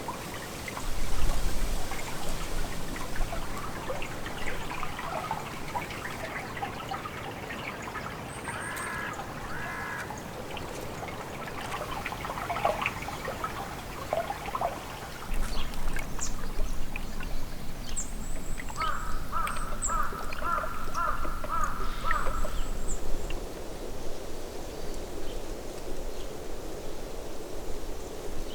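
Wild birds calling: two runs of harsh repeated calls, the longer one about two-thirds of the way through, with brief high chirps of small birds and scattered clicks over a low rumble.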